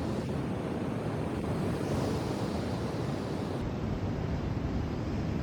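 Sea waves washing in, with wind buffeting the microphone: a steady rush of noise without a break.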